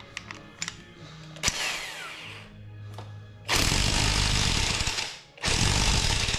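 A handheld power tool run in two bursts, the first about a second and a half long and the second about a second, each loud and ending abruptly. A few light clicks come before them.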